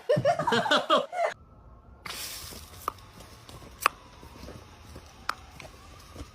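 A dog yipping and barking for about a second, then after a short break, quiet room noise with a few sharp clicks or taps.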